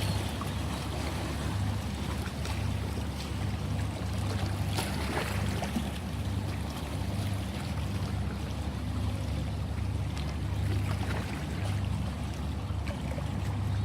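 Ocean waves washing and splashing in a continuous wash over a low rumble, with a few brief splashes, one about five seconds in.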